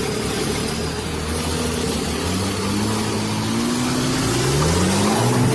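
Truck engine running steadily, then rising in pitch from about two seconds in as it revs up under acceleration, climbing until the end.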